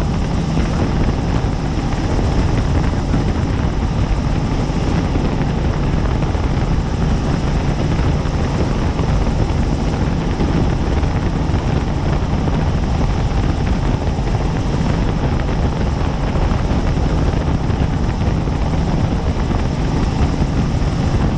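Helicopter in flight: steady, unbroken rotor and engine noise with a faint high whine.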